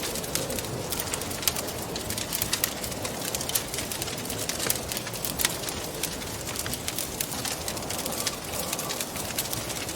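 Wood fire crackling in a fireplace, with many sharp, irregular pops and snaps over a steady rushing wind.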